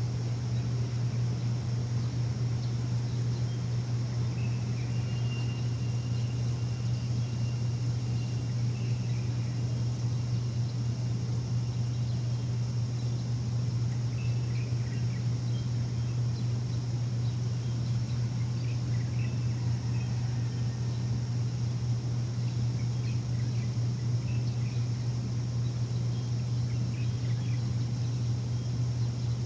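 Steady low machine hum with birds chirping now and then over it.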